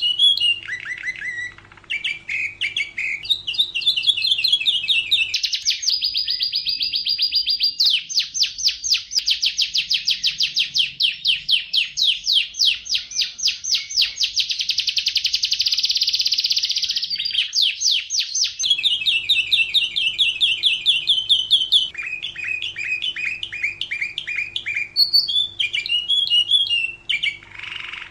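Domestic canary singing a continuous song of fast trills and quick repeated chirps. A long rolling trill runs for about thirteen seconds in the middle.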